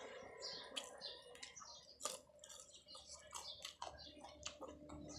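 Soft chewing and mouth clicks while eating, a string of short irregular clicks, with small birds chirping faintly in the background.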